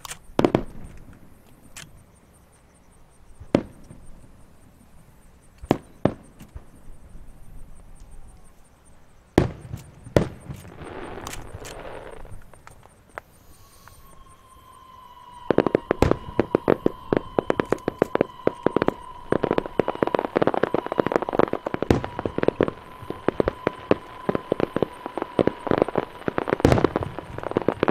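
Aerial fireworks: single shell bursts a few seconds apart, one trailing off in crackle, then from about halfway a rapid barrage of bangs and crackles. A steady high whistle runs underneath the barrage.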